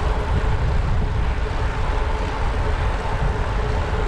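Wind rushing and buffeting over the microphone of a moving road bicycle, a steady low rumble with a faint constant hum.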